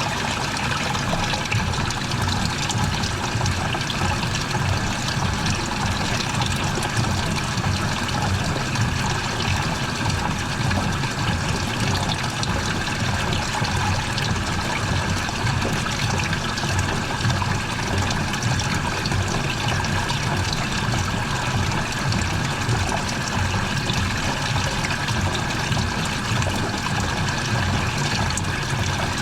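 Washing machine with water pouring steadily into the drum, an even rush of water with no breaks.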